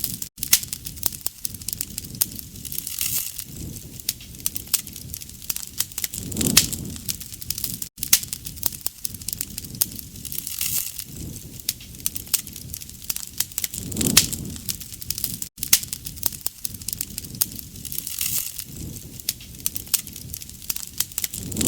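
Wood fire crackling, with dense sharp pops and snaps and low swells of the flames. The same stretch of recording repeats about every seven and a half seconds, with a brief gap in the sound at each repeat.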